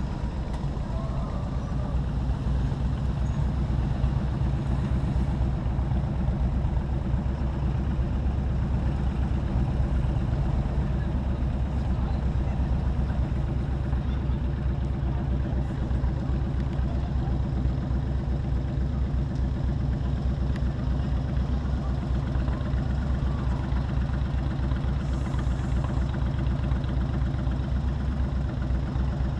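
Motorcycle engine running steadily at low revs, its low pitch holding even throughout.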